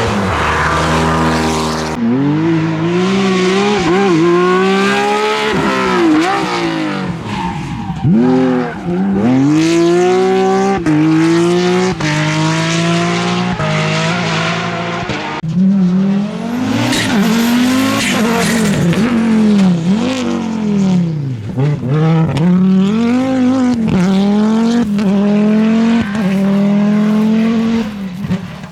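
Rally cars at full throttle, their engines revving up hard and dropping sharply again and again as they shift gear and lift off. Several cars are heard one after another.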